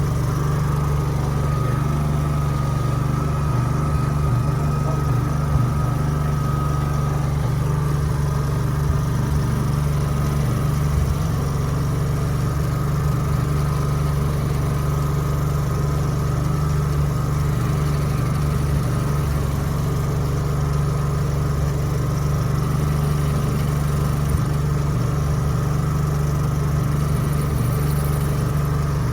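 Portable engine-driven generator running steadily, a constant loud low hum. A faint high whine is heard for the first seven seconds or so, then fades.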